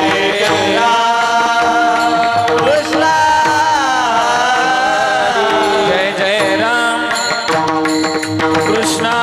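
Warkari devotional singing: a singer draws out long, wavering, ornamented notes over a steady drone, with mridang accompaniment.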